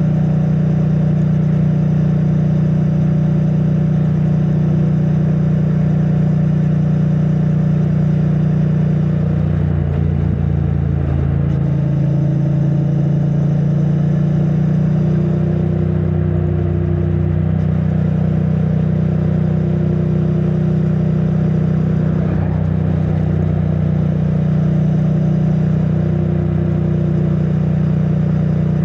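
2022 Triumph Bonneville T100's 900 cc parallel-twin engine with stock exhaust, running steadily under way on a ride, its note shifting about ten seconds in and again a few times later. Heard muffled from a microphone inside a backpack on the rider.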